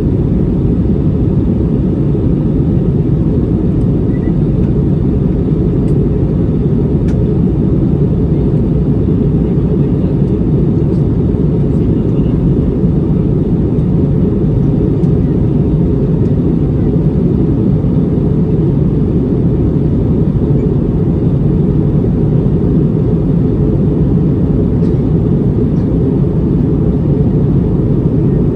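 Steady, even drone of an Airbus A320neo's engines and rushing air, heard from inside the passenger cabin while the airliner is still climbing.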